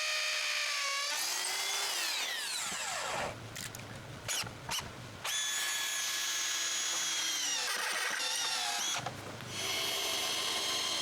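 Power drill driving screws through the wall frames into concrete blocks, running in three long spells. Its whine sags in pitch as the screw bites, with short pauses between spells.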